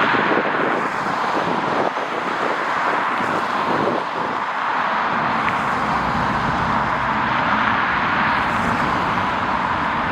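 Jet airliner engine noise at an airport: a steady rushing sound that fills out with deeper rumble from about halfway through.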